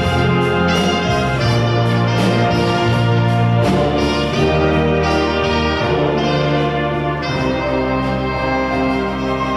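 Church orchestra playing an instrumental Christmas piece, with brass such as trumpets and trombones prominent over the full ensemble, in sustained chords that change every second or so.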